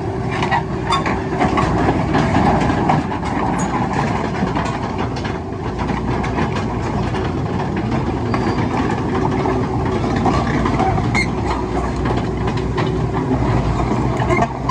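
Heavy diesel construction machinery running steadily, with scattered sharp metallic clicks and clanks.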